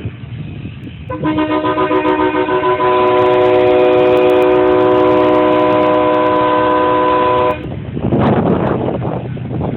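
A vehicle horn sounding a chord of several tones at once. It starts about a second in with a brief flutter, is held steady for about six seconds, and cuts off suddenly, followed by a short rush of noise.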